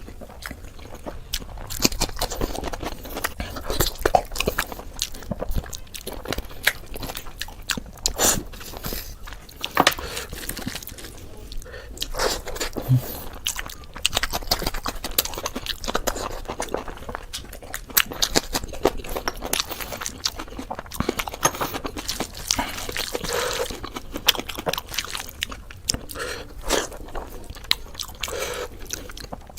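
A person chewing and biting basmati pulao and mutton curry: an irregular run of short mouth clicks and bites.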